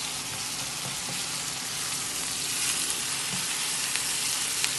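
Seasoned saltfish frying in a pan, a steady sizzling hiss with a few faint ticks.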